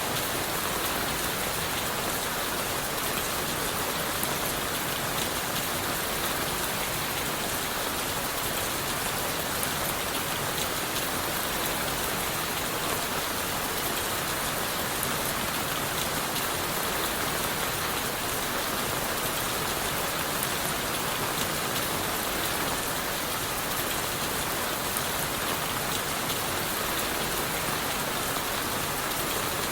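Steady rain falling on leaves, wood and the forest floor: a dense, even patter with no let-up.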